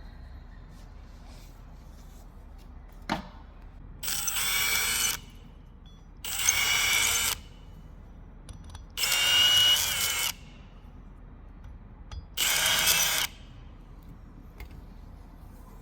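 Power drill chamfering the edges of four drilled bolt holes in a steel plate: four separate runs of about a second each, one per hole.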